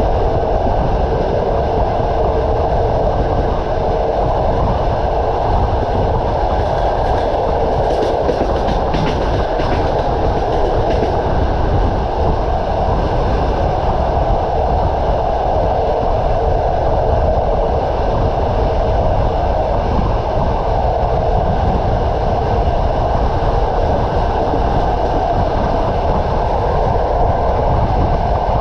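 Passenger train running along the track, heard from on board: a steady rumble and clatter of wheels on rails. A brief run of sharp clicks comes about seven to eleven seconds in.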